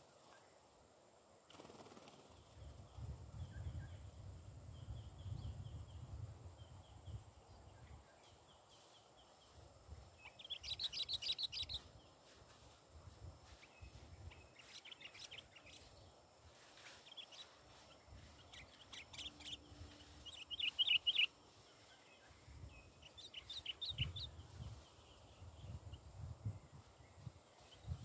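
Sooty-headed bulbul (kutilang) calling: short bursts of rapid chirps repeated every few seconds, the loudest about halfway through, over patches of low rumbling noise.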